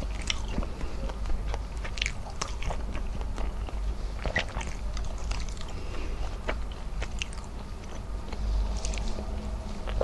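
Close-miked chewing and wet mouth sounds of someone eating rice and squid adobo by hand, with many short, irregular clicks and smacks.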